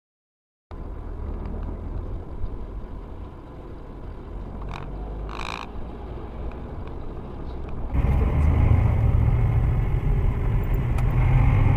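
Steady engine and road rumble heard from inside a moving vehicle, with a brief high-pitched tone about halfway through. About eight seconds in the rumble steps up sharply louder.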